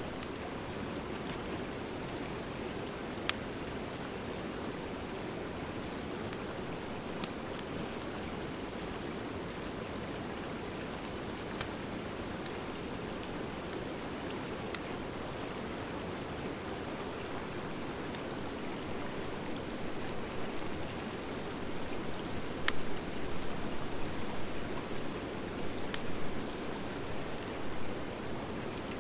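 Wood fire of driftwood and dry hardwood burning, with a sharp crackle or pop every few seconds over a steady rushing noise. About two-thirds of the way in, the noise grows louder and uneven, surging up and down.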